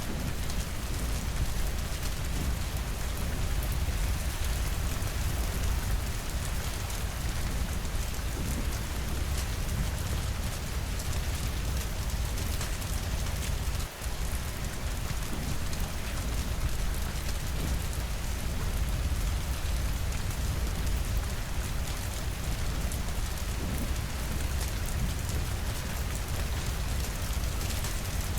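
Steady, dense rainfall against windows, with a constant low rumble underneath. The sound briefly drops out about halfway through.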